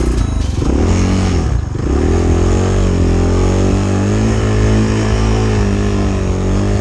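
Chinese dirt bike engine revving hard under load in deep snow: the pitch drops twice in the first two seconds, then climbs back and holds high with small surges.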